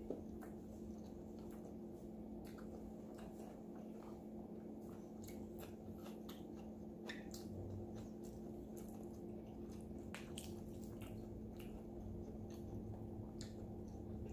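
Close mouth sounds of someone eating roasted chicken by hand: soft wet chewing, lip smacks and small clicks scattered throughout, over a steady low hum.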